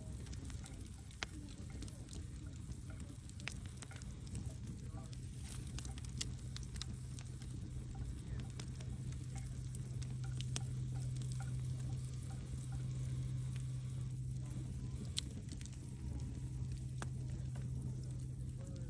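Wood fire burning in a fireplace: steady hiss and low rumble of the flames with frequent small crackles and pops from the burning logs, a sharper pop about a second in and another about fifteen seconds in.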